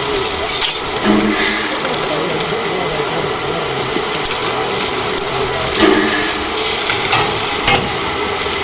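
Steam train hissing steadily, a continuous rush of escaping steam, with a few brief louder sounds about a second in and again near six and near eight seconds.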